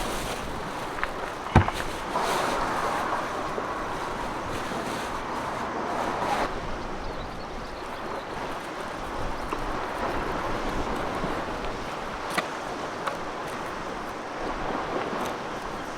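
Lake waves and wind, a steady wash, with one sharp knock about one and a half seconds in and a few light ticks later.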